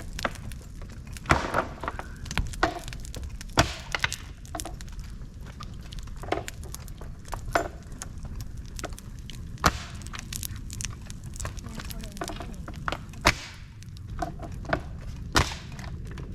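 Dry bamboo and twigs crackling and snapping in a campfire: sharp, irregular cracks, a few much louder than the rest, over a steady low background rumble.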